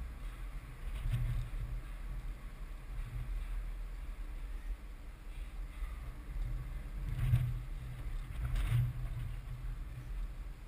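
Double-stack container freight train rolling past, a steady low rumble of wheels on rail, with a few louder knocks at about 1, 7 and 9 seconds in.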